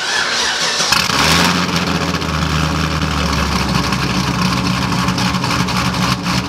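Cammed LSA V8 in a Pontiac GTO, straight-piped with the mufflers removed, cranked on the starter for about a second, catching with a loud flare, then settling into a loud, pulsing idle.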